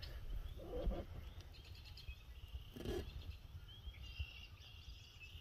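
Birds calling around a pond at dusk: short repeated high chirps, running into a quick trill near the end, over a low rumble of wind and handling on the phone's microphone.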